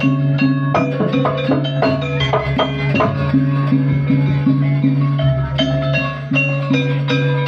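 Javanese jaranan gamelan music: struck metal keyed instruments and drums playing a quick, even rhythm over a steady low drone.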